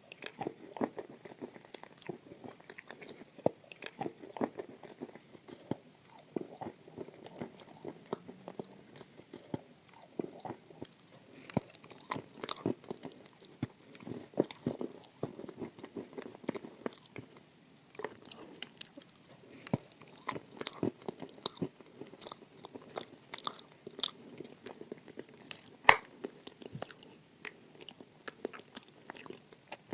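Close-miked chewing and biting of crisp, crunchy food, with irregular crackling crunches throughout and one sharp, louder crunch near the end.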